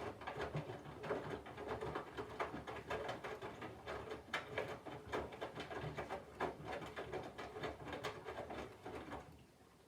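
Candy front-loading washing machine's drum turning slowly while it weighs the load: the motor hums under irregular clicks and rustles of wet laundry tumbling, then the drum stops about nine seconds in.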